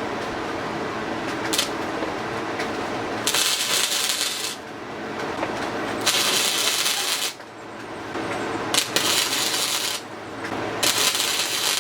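Electric welder laying short welds on a pitbike's worn kickstart stop, crackling in four bursts of about a second each, with a steady hum between them.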